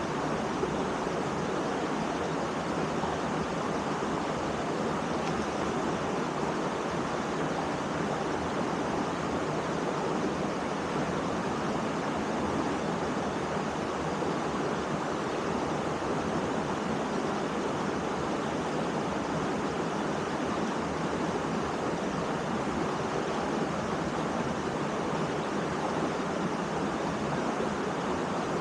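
Waterfall: the steady rush of falling water, unbroken and even.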